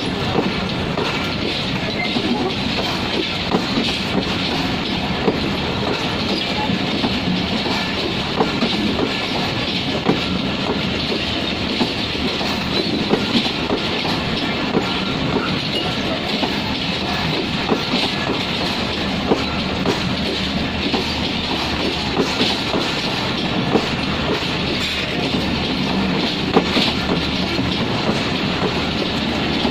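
Rupsha Express intercity passenger train with LHB coaches running on the rails: a steady rumble with frequent irregular clicks and clacks of wheels over rail joints.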